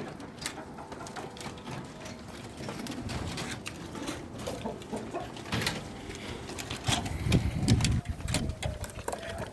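Domestic pigeons cooing, loudest about seven to eight seconds in, among scattered clicks and rustles from the birds and pens.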